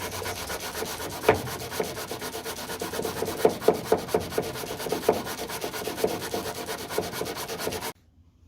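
Abrasive paper sanding body filler on a car's door sill: a continuous rasping rub with a series of heavier strokes, stopping abruptly near the end.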